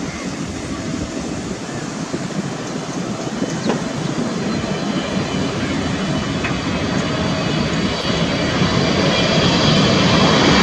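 Jet airliner on low approach to land, its engine noise growing steadily louder as it comes closer, with a high fan whine building near the end.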